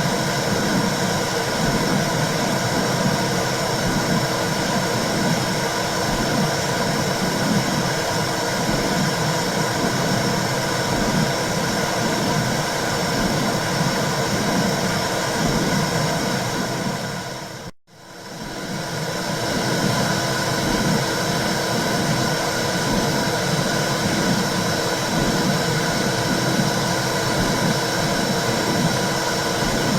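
Womb sound for babies: a steady whooshing noise with a rhythmic low pulse about once a second, like a heartbeat heard through fluid. About halfway through it dips to near silence and swells straight back, like the joint of a looped track.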